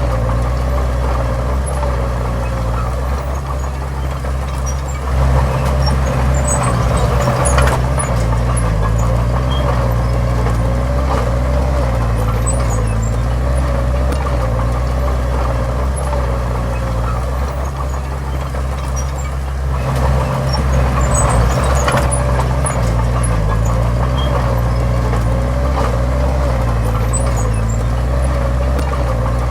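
Heavy diesel engine of earthmoving machinery running steadily. It grows louder twice, about five seconds in and again about twenty seconds in.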